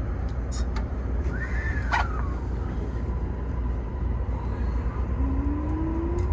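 Toei Mita Line 6500 series train running, heard from inside the driver's cab: a steady low rumble from the running gear with scattered light clicks. Near the end a motor whine rises in pitch.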